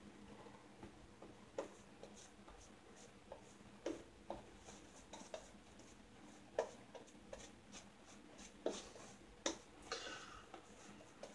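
Faint bristly scrubbing of a shaving brush working up lather, with scattered light clicks and taps.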